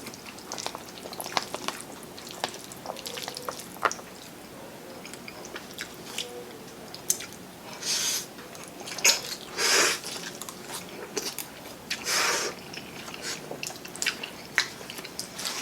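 Close-up eating sounds: wet mouth clicks and chewing, with a few louder, longer noisy bursts about halfway through and near the end.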